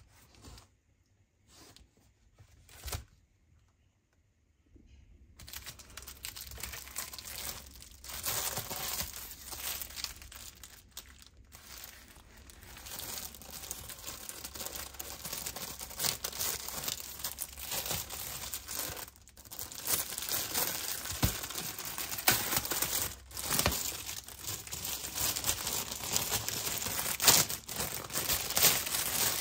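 A few light clicks, then from about five seconds in, continuous crinkling and tearing of packaging being unwrapped.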